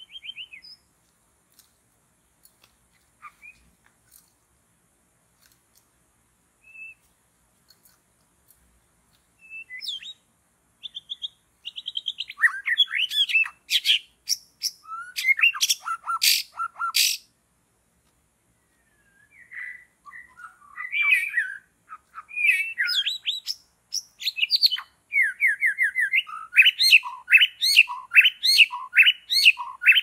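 White-rumped shama calling: a few scattered short chirps at first, then from about ten seconds in a dense run of loud, sharp chirps and harsh squawks, ending in a fast run of repeated notes.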